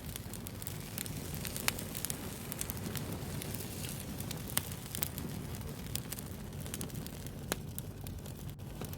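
Wood fire burning with a steady low rumble and irregular sharp pops and crackles, a few louder snaps among them.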